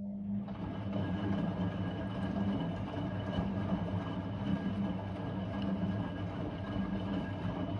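Blomberg WA391 washing machine starting up again after a pause in its 90 °C boil-wash cycle: a hum comes on, then the running noise builds within about a second and carries on steadily.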